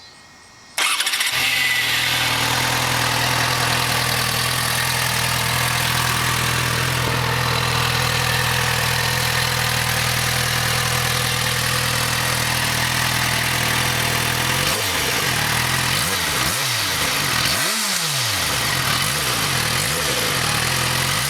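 Yamaha FZ6R's 600 cc inline-four, on its stock exhaust, starts up about a second in and then idles steadily, at a moderate level that is neither loud nor quiet.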